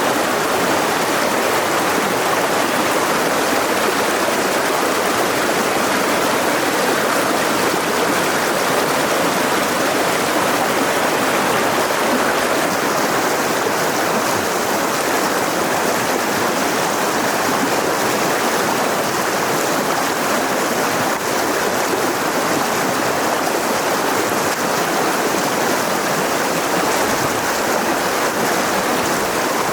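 Mountain river rushing over rocks, a steady even wash of water noise.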